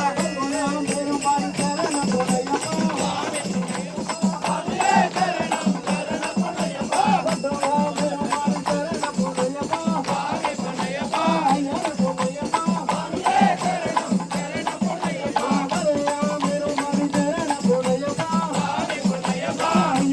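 Devotional bhajan singing with a fast, even rhythm of jingling percussion and a steady low drone underneath.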